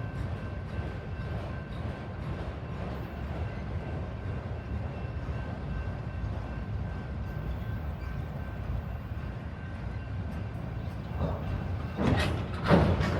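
Freight train cars rolling past with a steady rumble of wheels on rail and a faint thin ringing tone above it. Near the end there are two louder swelling surges.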